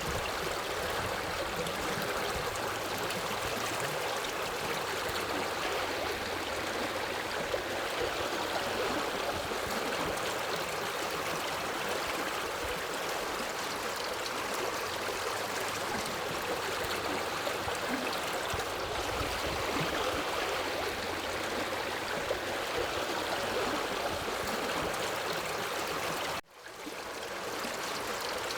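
Forest river flowing: a steady rush of running water. Near the end the sound drops out abruptly for an instant and fades back in over about a second.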